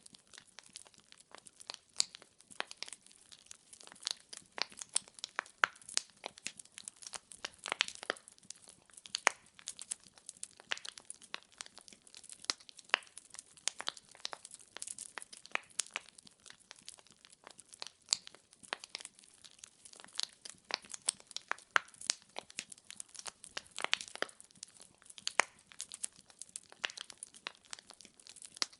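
Wood fire crackling: burning logs giving off a dense, irregular run of sharp snaps and pops.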